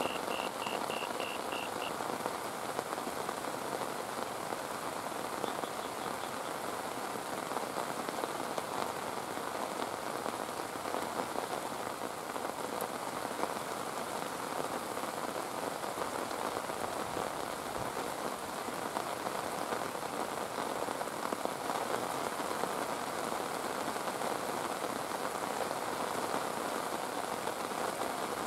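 Heavy rain falling steadily: a dense, even hiss of drops that keeps the same level throughout. A rapid series of high pulses fades out in the first two seconds.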